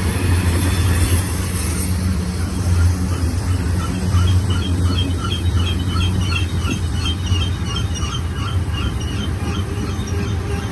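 Freight train cars rolling past at close range, a steady low rumble of wheels on rail. From about three seconds in, a high squeak repeats about three times a second for several seconds, then fades.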